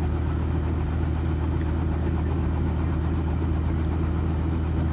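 Helicopter running steadily, a constant low engine and rotor drone with a pulsing low throb underneath.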